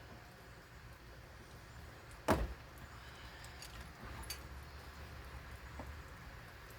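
A single loud knock or bang about two seconds in, over a steady low rumble, with a few faint clicks afterwards.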